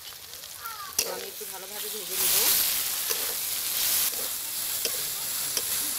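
Onion, garlic and ginger pastes frying in hot oil in a karahi as a metal spoon stirs them. The sizzling grows louder about two seconds in. A sharp clink of the spoon on the pan comes about a second in, with a few lighter taps later.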